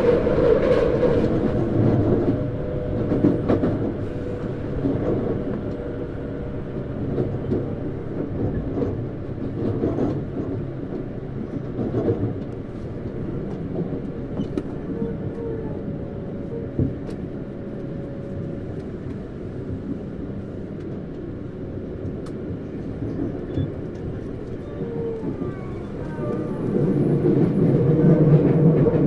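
Interior running sound of a Tokyu Series 9000 electric train, heard from a motor car: a steady rumble of wheels on rail with a few knocks, and the whine of its Hitachi GTO-VVVF traction inverter. The sound is louder at the start, quieter through the middle, and grows louder again near the end, with faint rising tones just before.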